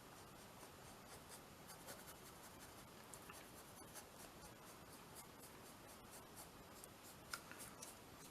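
Faint scratching of a paintbrush working medium across the canvas, with scattered light ticks and one sharper tap near the end.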